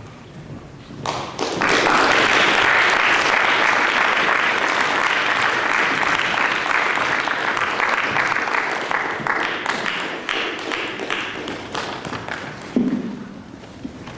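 Audience applauding: the clapping swells about a second in, holds, then slowly dies away, with a short low sound near the end.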